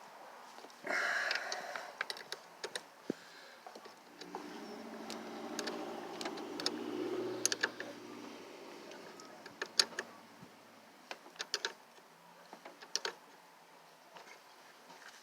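Metal tools and battery cable ends clicking and clinking on battery terminals as the batteries are reconnected. A low steady hum with several tones sounds from about four to eleven seconds in.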